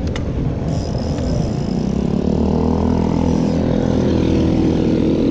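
A motor vehicle engine running close by, its pitch rising about two seconds in and then holding steady.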